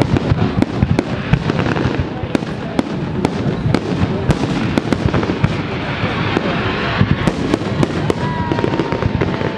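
Large fireworks display: a dense, continuous run of bangs and crackling bursts, several a second, over a steady low rumble.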